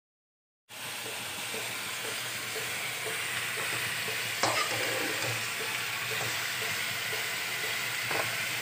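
Chicken pieces sizzling in a pan, a steady hiss that starts abruptly under a second in. A spatula knocks against the pan twice, once about halfway and once near the end.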